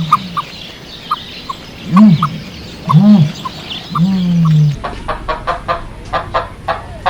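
Chickens clucking: a few low, drawn-out calls with short higher chirps between them, then near the end a quicker run of clucks, about four or five a second.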